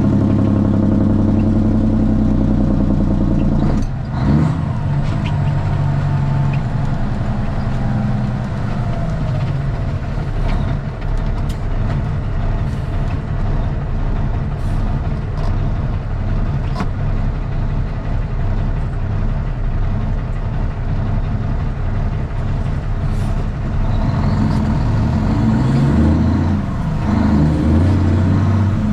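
Straight-piped Cummins ISX inline-six diesel in a Kenworth T800 running under way, heard from the cab. There is a sharp crack about four seconds in, followed by a falling whine. Through the middle the engine note is rougher, and near the end it rises and changes pitch as the truck goes through the gears.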